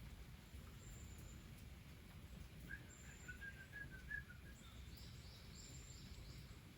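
Faint birdsong over a low outdoor rumble: a run of short chirps about three seconds in, then a quick series of about five higher notes.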